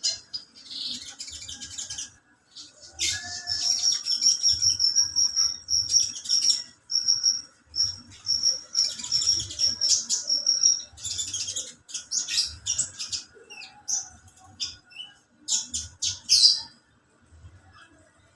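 Olive-backed sunbird (kolibri ninja) calling: bursts of sharp, high chirps, with a long run of rapid, evenly repeated high notes from about three to eleven seconds in.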